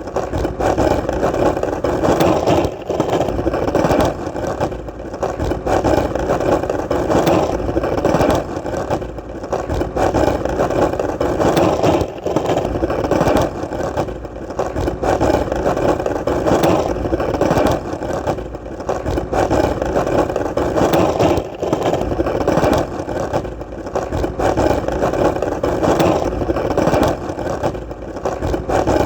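Skateboard wheels rolling on hard ground: a continuous rumbling roll with many small clicks and rattles, easing off briefly every couple of seconds.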